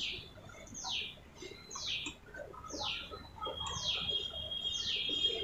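A bird calling over and over: a short call that falls sharply in pitch, about once a second.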